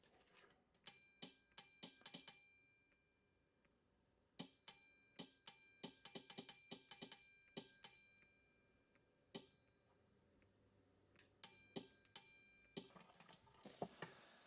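Faint, irregular clicks of a relay module and 24 V 5/2 solenoid valve switching on and off as the inductive proximity sensor triggers them, with no air connected. A faint steady high whine sounds during the stretches while the coil is switched on, starting and stopping with a click.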